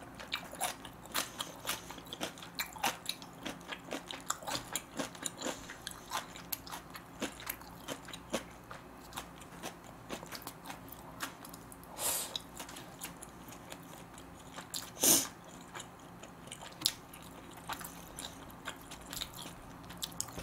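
Close-miked mouth sounds of someone eating smoked duck and rice: wet chewing clicks and small crunches, thick at first and sparser later, with two louder mouth sounds about twelve and fifteen seconds in.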